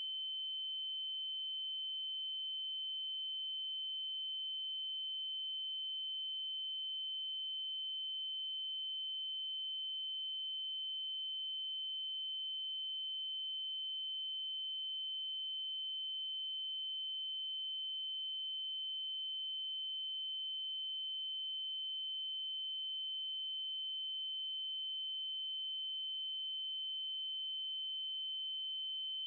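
Steady electronic triangle-wave tone at 3072 Hz, a single high-pitched unchanging pitch with faint overtones above it.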